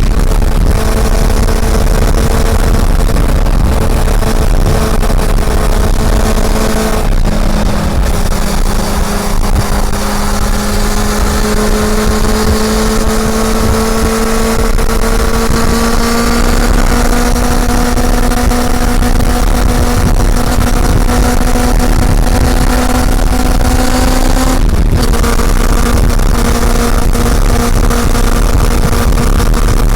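Honda CB400 Super Four's inline-four engine pulling under way, its note climbing slowly as speed builds. It breaks twice, about 7 seconds in and near 25 seconds, each time dropping to a lower note as on an upshift. Heavy low wind rumble on the microphone runs under it.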